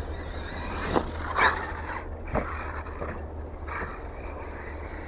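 Arrma Mojave 6S RC truck running in short bursts, several brief whooshes of motor and tyres over a steady low rumble.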